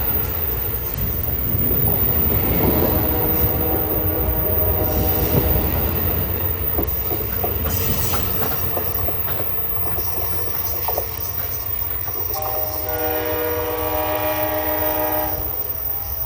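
A train rumbling past with scattered clicks from the wheels on the rails. Its horn sounds twice, as a chord of several steady tones: once for about two seconds a few seconds in, and again for about three seconds near the end.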